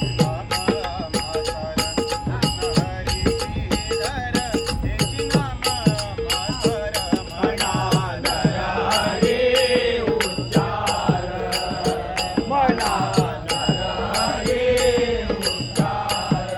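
Devotional bhajan music: small hand cymbals struck in a steady beat, about three strikes a second, their ringing lingering between strikes. A sung vocal line comes in strongly about halfway through.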